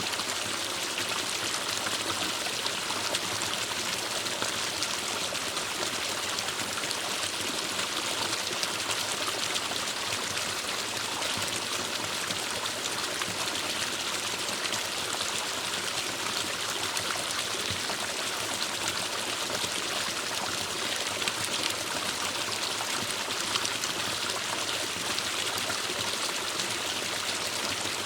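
Forest stream flowing over rocks, a steady rushing and trickling of water.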